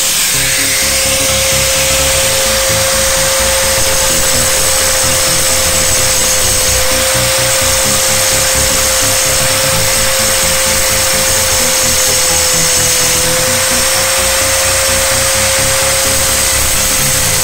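Angle grinder running at steady speed with a constant high whine and hiss, its cutting disc grinding off the rivet heads of an e-bike motor's clutch plate.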